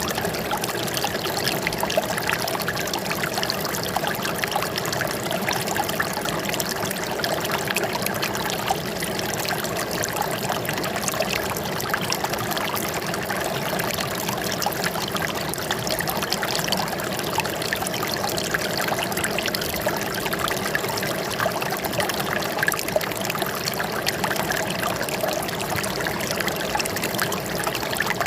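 Steady running water, trickling and splashing without pause.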